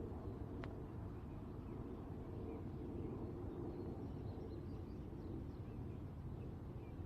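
Steady low rumble of distant highway traffic, with faint high chirps scattered through it and a single sharp click about half a second in.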